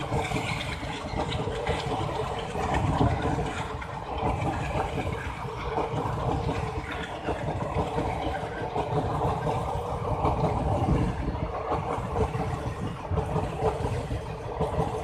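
ICF Utkrisht passenger coaches rolling past at speed: a steady rumble of steel wheels on the rails.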